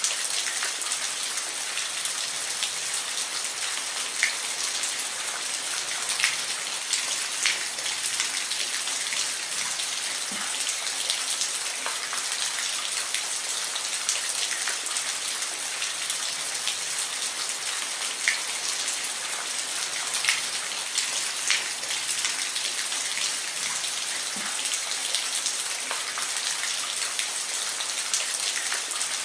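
Steady rain falling, a dense hiss with the sharper ticks of single drops striking a surface here and there.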